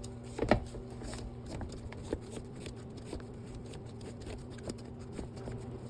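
Shoelaces being pulled out through the eyelets of a sneaker: a run of small ticks and rustles of lace against the eyelets, with one louder knock about half a second in, over a faint steady hum.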